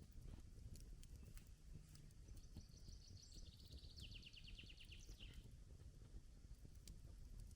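Faint wood fire crackling with scattered sharp pops over a low rumble. In the middle a songbird sings one trilled phrase of rapid notes that drops in pitch, lasting about three seconds.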